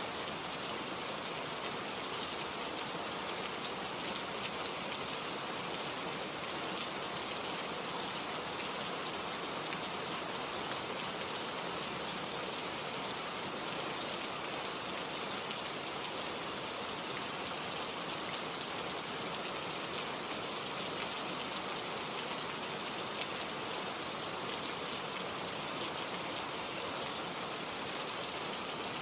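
Gentle steady rain shower falling, an even hiss with fine patter of drops and no thunder.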